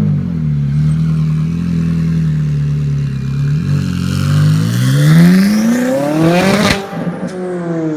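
Twin-turbo Ferrari 458 V8 running at a low, steady note, then accelerating hard so that its pitch climbs for about three seconds. Near the end the note peaks with a sharp burst and then drops steadily as the car pulls away.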